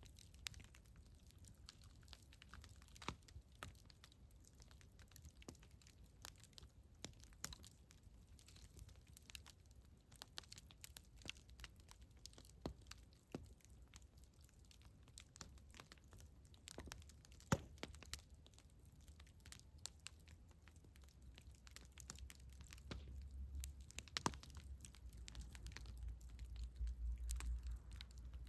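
Campfire crackling: irregular sharp pops and snaps of burning wood over a low rumble that swells near the end.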